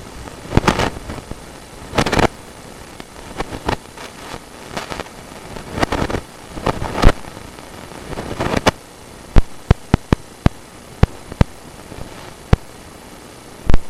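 Drain inspection camera head and push cable scraping and knocking inside a scaled-up drain pipe as it is pushed along: several rough scraping bursts, then a series of sharp separate knocks over the last few seconds.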